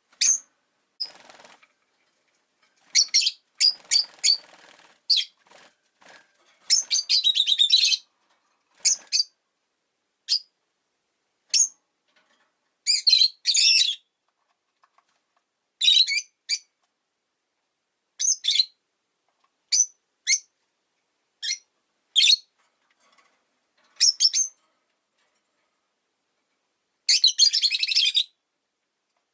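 Rosy-faced lovebirds giving short, sharp, high-pitched chirps every second or two, with a fast run of calls about seven seconds in and another near the end.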